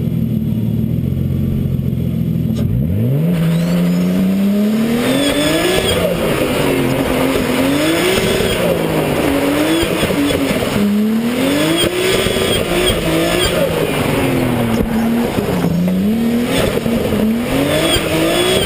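Nissan R32 Skyline's RB20DET turbocharged straight-six idling, then launching about three seconds in with a sharp climb in revs. After that the revs rise and fall over and over as the car is driven hard through a motorkhana course, with short tyre squeals.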